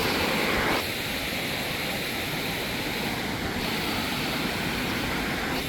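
Waterfall rushing: a steady hiss of falling water, a little louder in the first second.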